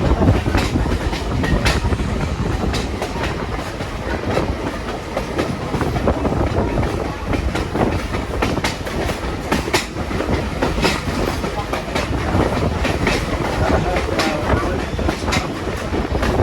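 Passenger train rolling along the track, heard from on board: a steady low rumble with irregular clicks and clacks of the wheels over the rails.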